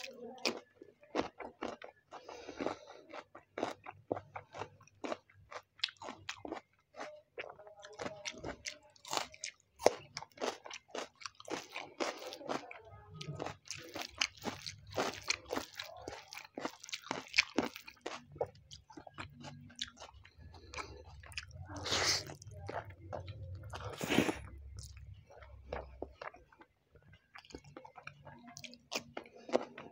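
Close-miked chewing and crunching of mouthfuls of chicken biryani eaten by hand together with raw cucumber slices: a dense run of short wet clicks and crunches, with two louder crunches a little after the two-thirds mark.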